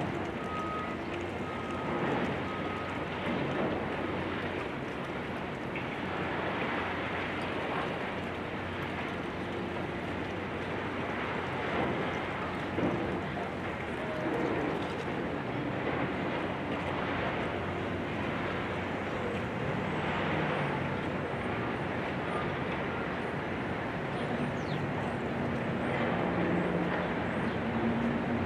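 Demolition-site and street noise: heavy machinery running steadily with irregular crunching. A repeating beep sounds for the first three seconds or so.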